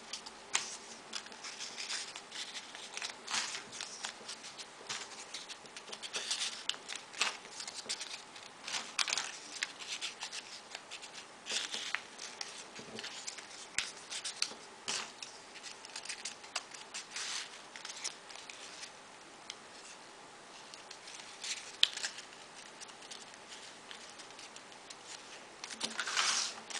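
Folded paper modular origami pieces being handled and slotted onto one another: irregular light crisp paper rustles, scrapes and clicks.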